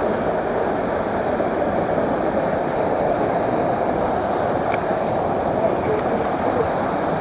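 Waterfall, falling water rushing steadily.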